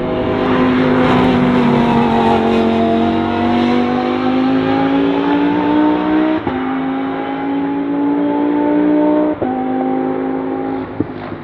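Lamborghini Huracán Super Trofeo EVO2 race car's V10 engine accelerating hard, its pitch rising steadily, with two quick upshifts about six and nine seconds in. The sound drops away near the end.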